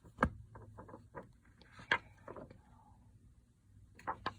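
Short rustles and taps of a picture book's paper pages being handled, the sharpest near the start and another about two seconds in.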